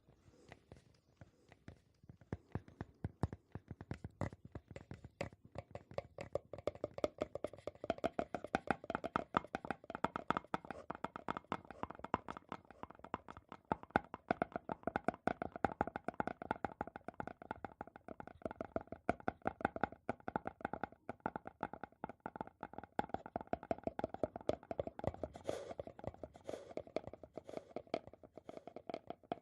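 Fast, continuous tapping on an object, many light taps a second, starting about two seconds in, the taps carrying a steady resonant tone.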